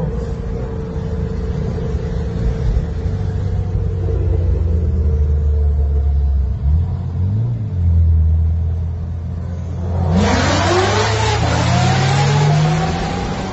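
A car engine running with a steady low drone, its pitch briefly rising and falling about seven seconds in. About ten seconds in, a loud rush of road and wind noise sets in while the engine revs up and down several times.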